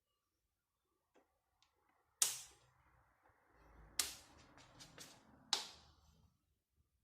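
Sharp clicks and knocks of pedestal fan parts being handled and fitted together during reassembly: one loud knock about two seconds in, then a cluster of several more between four and six seconds in, with low handling rustle between them.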